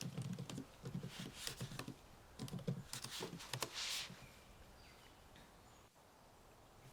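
Typing on a computer keyboard: quick runs of keystrokes, stopping about four seconds in.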